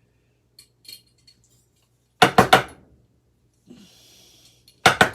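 Small metal fan parts clattering: two bursts of sharp metallic clinks, about two seconds in and again near the end.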